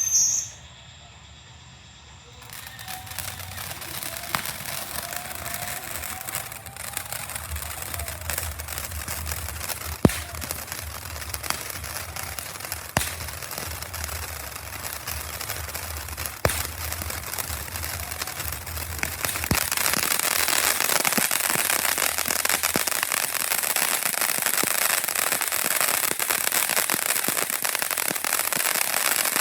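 Phoenix Finale firework fountain igniting about two and a half seconds in and spraying with a steady hiss and a faint whistle. Sharp cracks come a few times along the way. From about two-thirds through, the spray grows louder into dense crackling.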